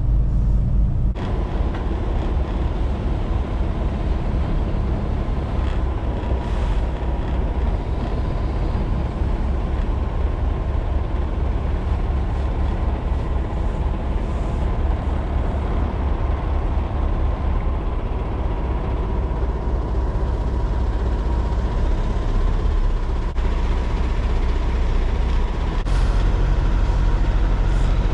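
Semi truck's diesel engine running, heard from inside the cab, with a faint steady whine over the rumble; the rumble grows louder near the end.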